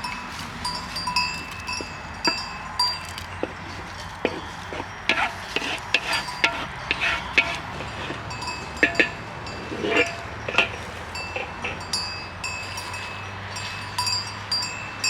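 Bells on grazing livestock clanking on and off, with scattered sharp clicks and knocks.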